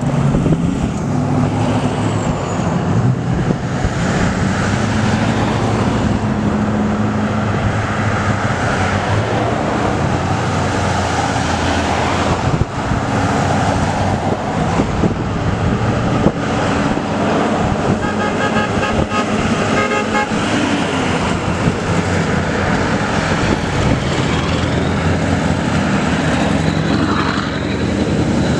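Convoy of diesel trucks rolling past with horns blowing, held horn tones over steady engine and road noise. About two-thirds of the way through comes a rapid string of short pulses.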